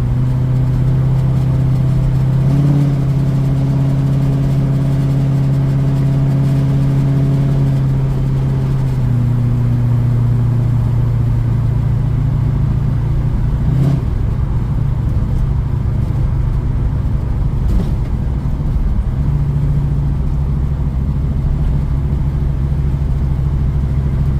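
1972 Mustang Mach 1's V8, fitted with a Crane cam and a Black Widow Race Venom muffler on a single 3-inch exhaust, running loud while the car is driven, heard from inside the cabin. The engine note holds steady, drops about nine seconds in and rises again near twenty seconds, with a couple of light knocks in between. It is running well, without pinging.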